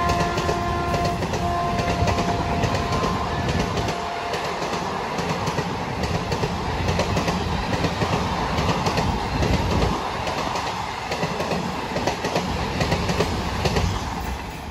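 An Indian express train passing close by at speed, with steady rushing noise and a rapid clickety-clack of wheels over rail joints. A locomotive horn note trails off in the first few seconds, and the train noise falls away sharply just before the end.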